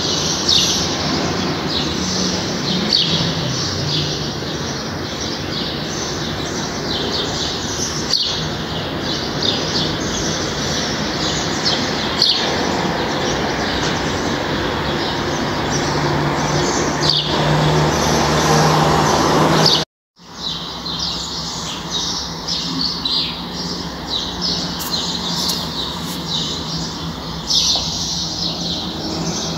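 Many small birds chirping and twittering rapidly over a steady background noise; the sound cuts out for a moment about two-thirds of the way through.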